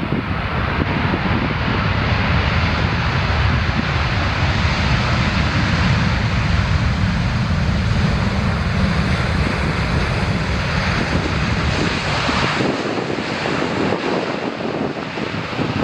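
A jet airliner's engines, loud and steady with a deep rumble. About twelve seconds in the rumble drops away, leaving a higher rushing noise.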